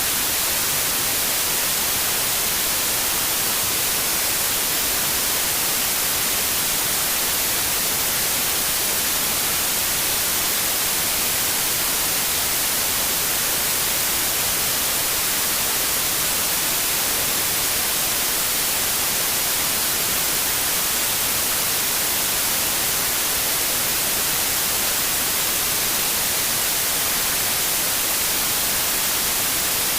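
Steady synthetic white noise, an even hiss with no change or events, strongest in the highs.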